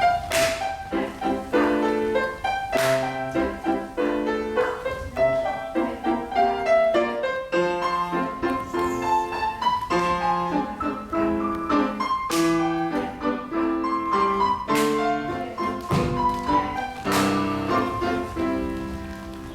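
Piano playing a steady, rhythmic classical accompaniment of chords and melody notes for a ballet barre exercise, with a few sharply accented notes, fading out at the end.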